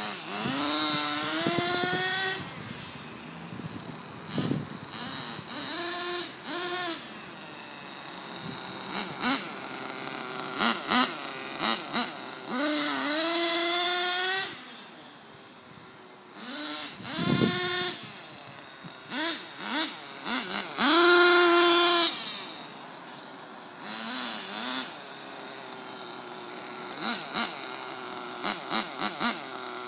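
Sirio .09 two-stroke nitro engine in a Kyosho Mini Inferno RC buggy, revving and easing off as the buggy is driven, its pitch rising and falling over and over. It is loudest near the start, around halfway and about two-thirds of the way in, fainter as the buggy runs further away in between.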